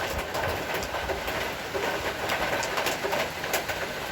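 Heavy rain shower falling steadily: an even hiss of rain with many sharp drops and drips spattering through it.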